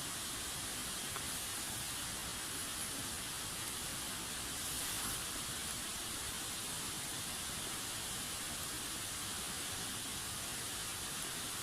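Small wood fire burning with a steady hiss and a few faint crackles.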